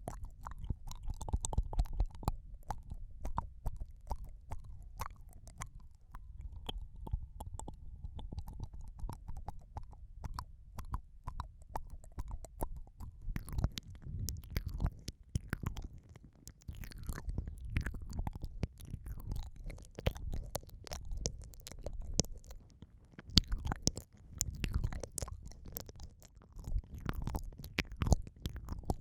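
Close-up wet mouth sounds of ASMR ear eating: lips and tongue licking, kissing and mouthing at the microphone, giving a dense run of small wet clicks over muffled low rumbling.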